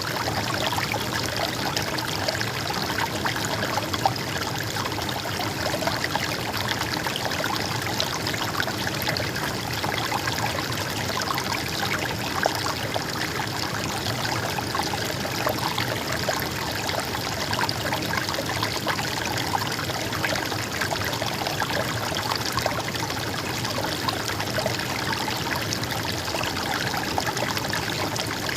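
A stream flowing and trickling, a steady, even babble of running water.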